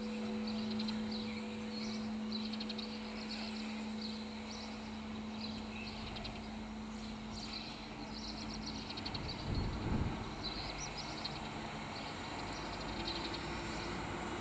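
Birds chirping in short, repeated bursts over a steady low hum. The hum fades about nine seconds in, and a brief low rumble follows about a second later.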